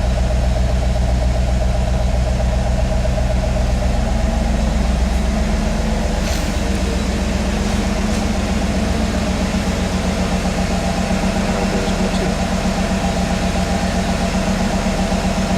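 1993 Camaro Z28's LT1 350 V8 idling steadily while it warms up after a cold start. The tone of the idle shifts slightly about five seconds in.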